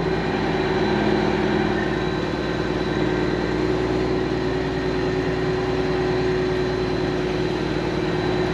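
Semi-truck diesel engine running steadily at low speed, a constant low hum.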